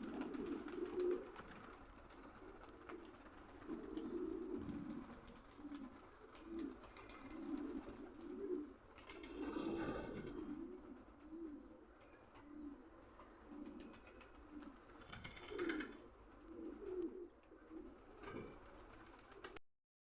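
Pigeons cooing over and over, several low calls overlapping, with a brief louder noise about halfway through and another near sixteen seconds in.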